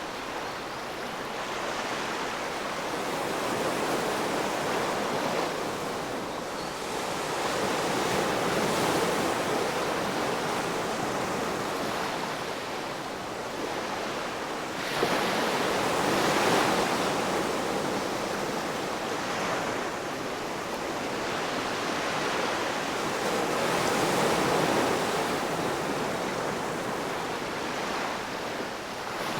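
Ocean waves breaking on a shore: continuous surf that swells and fades every several seconds, with a sudden louder break about halfway through.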